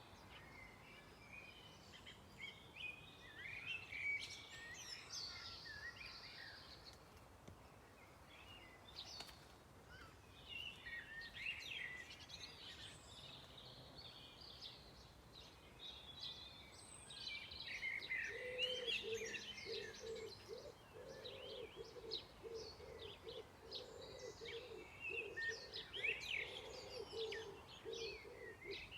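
Several songbirds singing, with many quick chirps and trills overlapping. From about two-thirds of the way in, a low, rapid pulsing sound joins them.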